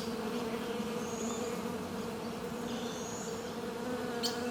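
Bee buzzing in a steady hum of unchanging pitch.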